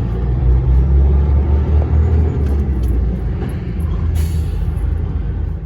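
DAF dump truck's diesel engine running with a steady low rumble, heard inside the cab in slow traffic. A brief hiss comes about four seconds in.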